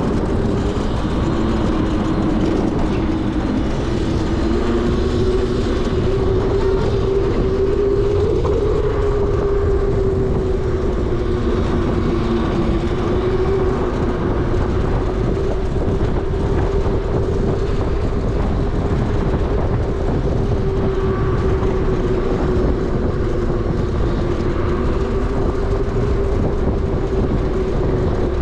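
72V Onyx RCR electric motorbike riding at steady speed: a single motor whine wavers gently up and down with the throttle, under heavy wind rumble on the microphone.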